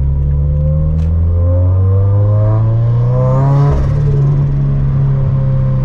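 Turbocharged 2013 Scion FR-S's flat-four engine, breathing through a catless front pipe and a quad-tip catback exhaust, accelerating with its pitch climbing steadily. About three and a half seconds in the engine eases off and the pitch falls.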